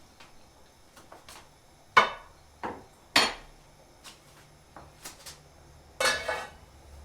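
Kitchenware being handled: three sharp knocks about two to three seconds in, then a longer rattling clatter near the end, with light clicks in between.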